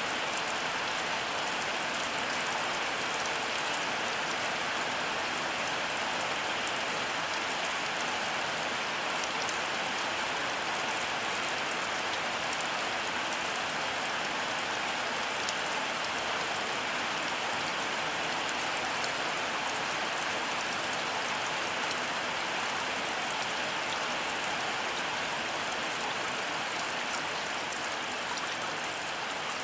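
Heavy rain falling steadily: an even, unbroken hiss with the ticks of individual drops scattered through it.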